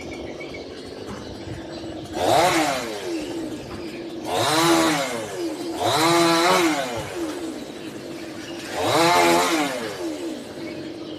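Two-stroke chainsaw idling steadily, revved up four times in short bursts that rise and fall in pitch.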